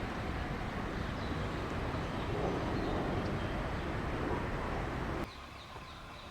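Outdoor ambience: a steady rumbling noise with faint bird chirps. About five seconds in it cuts off suddenly to a quieter background.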